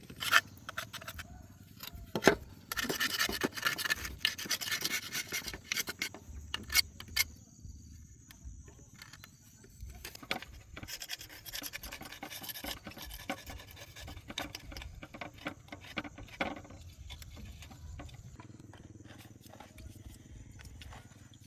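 Hand-tool work on metal machine parts: scraping and rubbing, busiest a few seconds in, with several sharp knocks scattered through.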